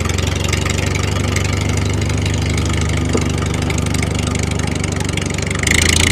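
Small engine of a homemade mini tractor running steadily with a rapid, even pulse. It gets louder and brighter near the end.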